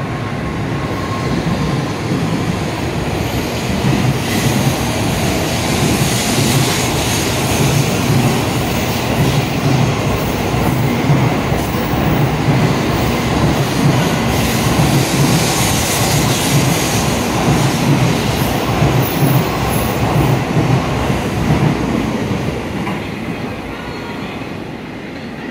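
N700A Shinkansen pulling out of the station and running past: steady wheel-and-rail running noise that grows louder about four seconds in as the train picks up speed, then fades near the end as the last car clears the platform.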